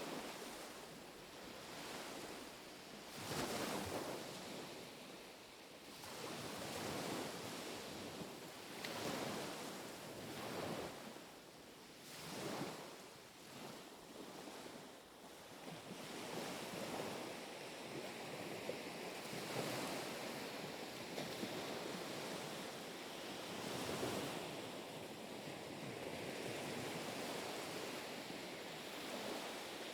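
Gentle ripples of small waves lapping on the shore, each wash swelling and fading every couple of seconds, with a little wind.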